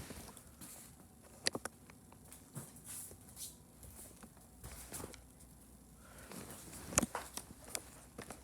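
Quiet footsteps and shuffling with scattered sharp clicks and knocks, two close together about a second and a half in and the loudest about seven seconds in.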